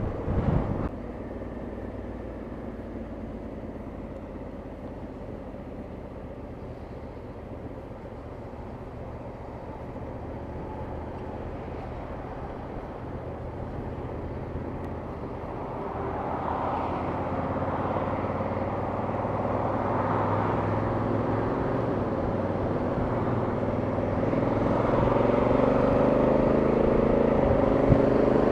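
Motorcycle engine and road noise while riding, steady at first. Over the last twelve seconds or so it grows steadily louder, with the engine note slowly rising as the bike picks up speed.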